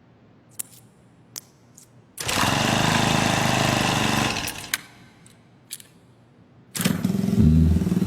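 A few sharp clicks, then an engine running loudly for about two seconds before fading away; near the end an engine starts up again and keeps running steadily.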